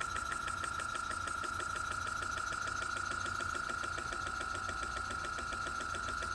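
Small single-cylinder, single-acting, spool-valve model steam engine running on compressed air at about 5 to 6 psi, with a rapid, even beat of exhaust puffs and mechanical clicks at each stroke over a steady high tone.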